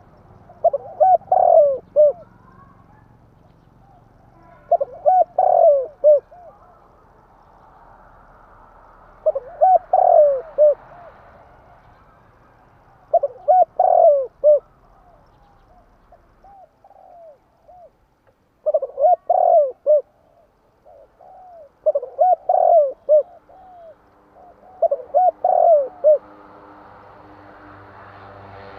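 Spotted dove cooing: a repeated phrase of several short, rhythmic coos, sung about every three to four seconds, loud and close.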